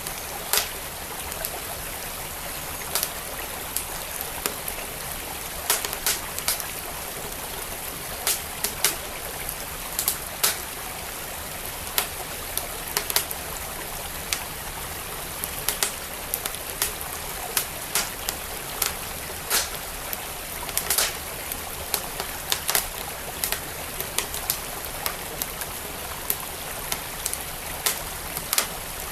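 Wood fire crackling with irregular sharp pops, over the steady rushing of a flowing stream.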